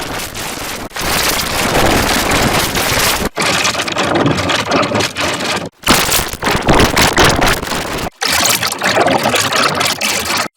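Loud, harsh, heavily distorted noise that fills the whole range with no clear pitch, coming in segments of about two and a half seconds, each cut off sharply: digitally mangled audio from a chain of sound effects.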